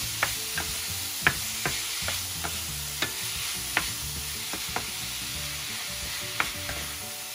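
Ground chicken sizzling in oil in a stainless steel pan while it is browned and stirred with a wooden spatula. Steady frying hiss with irregular knocks and scrapes of the spatula against the pan, about two a second.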